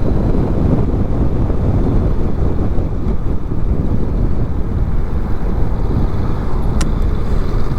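Wind rushing over the microphone while riding a 2021 Honda Rebel 500, with the bike's parallel-twin engine and road noise underneath. One short, sharp click comes about seven seconds in.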